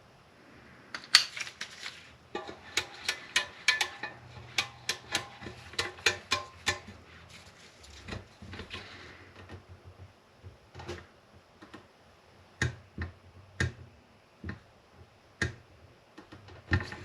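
Irregular sharp metallic clicks and clinks, some ringing briefly, of hand tools working on a motorcycle exhaust fastening. They come in a dense run for the first seven seconds and then more sparsely.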